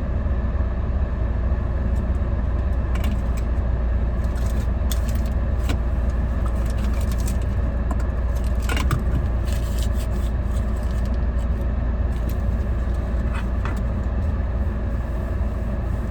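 A steady low rumble of vehicle noise, with light, scattered clicks and jingles over it.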